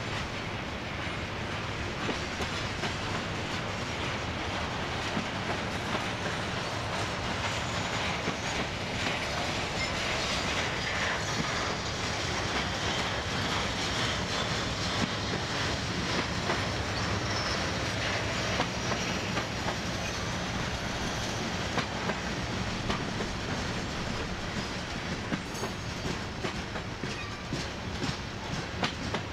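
Mixed freight train cars rolling past: a steady noise of steel wheels on rail, with frequent clicks and clacks of wheels over rail joints.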